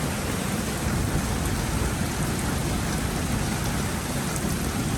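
Heavy rain pouring steadily in a thunderstorm.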